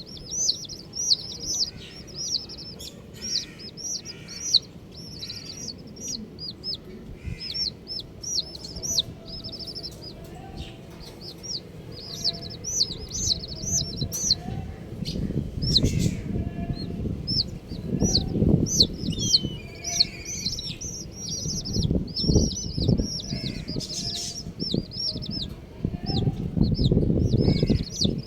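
A group of baby chicks peeping continuously: many short, high chirps overlapping rapidly. Bursts of low rumbling noise come in and out over the second half.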